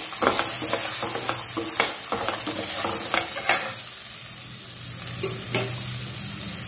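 Chickpeas and dried red chillies sizzling as they fry in oil in a metal kadai, while a perforated metal spoon stirs them, scraping and clicking against the pan. The stirring stops after about three and a half seconds, leaving the steady sizzle.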